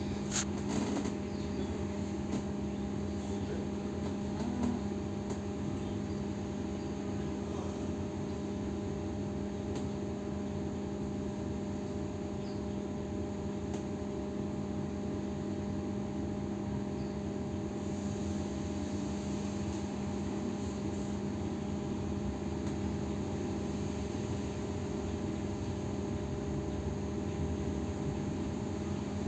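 Steady electrical hum and rumble inside a BKM 321 trolleybus, with a constant low tone and fainter higher tones that hold their pitch throughout. There is a brief knock about half a second in.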